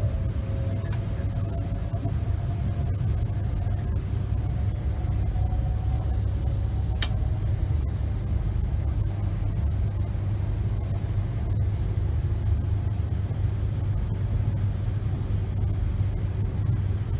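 Steady low rumble of a Virgin Pendolino (Class 390) electric train running, heard from inside the carriage, with a faint whine that rises slightly near the start. A single sharp click about seven seconds in.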